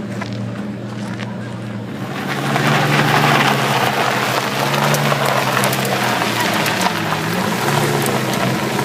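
Lamborghini Reventón Roadster's V12 engine running at low revs. About two seconds in, its exhaust note gets louder and rises slightly in pitch, dipping briefly near seven seconds before rising again at the end.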